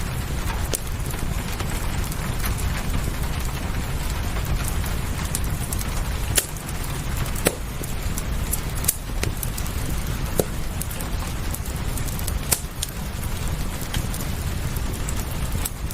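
Fireplace crackling, with irregular sharp pops, a few of them louder, over a steady low rumbling background of rain.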